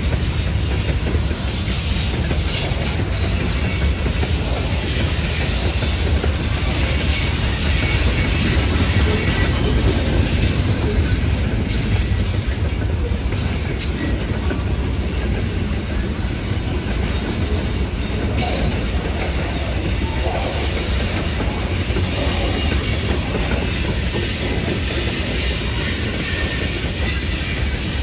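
Freight cars of a CSX mixed freight train (covered hoppers and boxcars) rolling past close by: a steady heavy rumble of steel wheels on rail, with a high wheel squeal coming and going.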